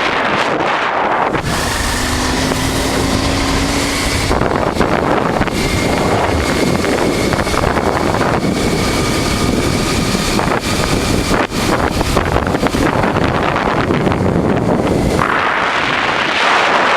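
Heavy wind buffeting the microphone at riding speed over the running engine of a 1988 Honda Transalp, a 600 cc V-twin, with a faint steady whine on top.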